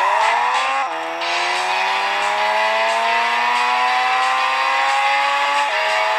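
Mazda rotary engine accelerating hard under load, shifting up about a second in and again near the end, its pitch climbing slowly through the gear in between.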